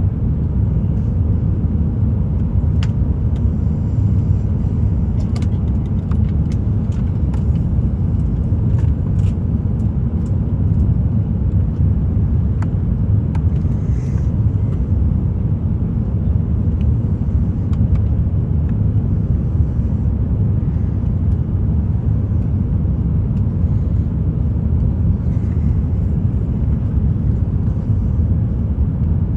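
Steady low rumble of cabin noise inside an Airbus A350-900, the even drone of engines and airflow, with a few faint ticks.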